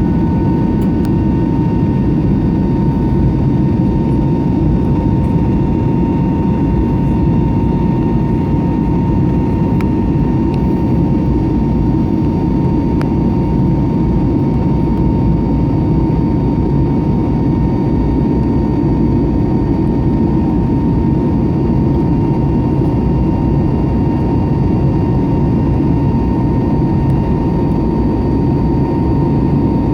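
Steady jet engine and airflow noise inside the cabin of an Airbus A321neo in flight, with a thin steady whine above the deep rumble.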